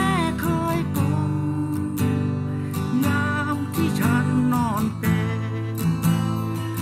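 Instrumental music: acoustic guitar strumming chords in a steady rhythm, with a gliding melody line over it about halfway through.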